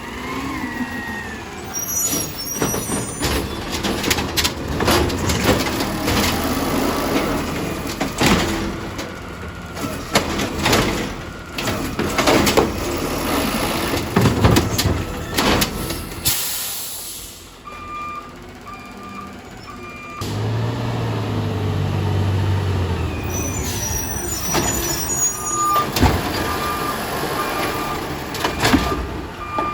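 Garbage truck working its route: repeated clanks and knocks from the truck, an air brake hissing a little past halfway, then a backup alarm beeping in the second half.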